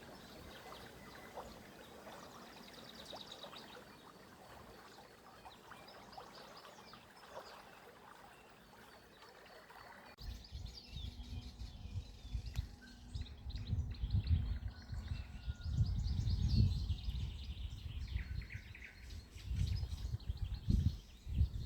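Small birds chirping and singing over a soft, steady wash of running water. About ten seconds in, the sound changes abruptly: loud, irregular low rumbling comes in under the birdsong.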